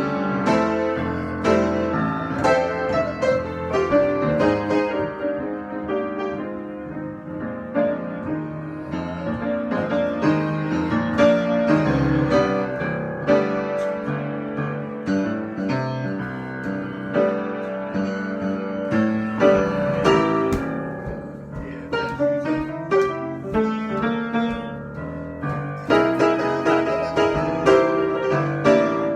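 Solo piano improvisation: a continuous flow of notes and chords that thins out briefly past the middle, then turns busier and louder near the end.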